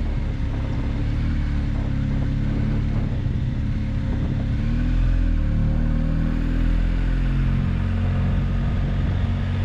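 Motorcycle engine, a BMW R 1250 GS Adventure's boxer twin, running steadily under way on a climbing mountain road, its pitch rising and falling with the throttle, over a low rumble of wind and road.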